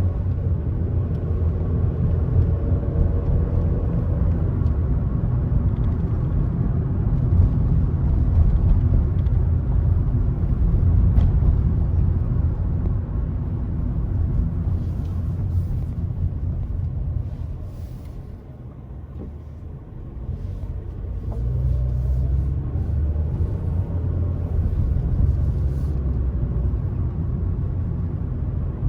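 Car road noise while driving: a steady low rumble of tyres and engine. It drops away for a few seconds about two-thirds of the way through, then builds up again.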